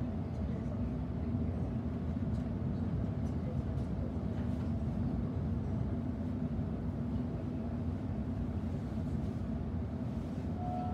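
Interior noise of a Sydney Trains Millennium electric train running along the line: a steady low rumble of the wheels and running gear with an even hum, heard from inside the passenger carriage.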